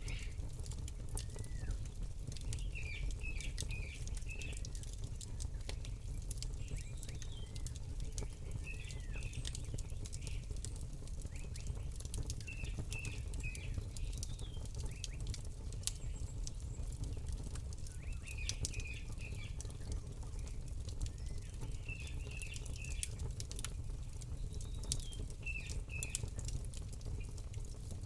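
Campfire crackling with sharp, scattered pops over a low steady rumble, while small birds chirp in short runs every few seconds.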